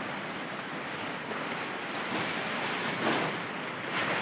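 Steady rush of flowing water, a continuous noisy hiss, swelling slightly twice in the last second or so.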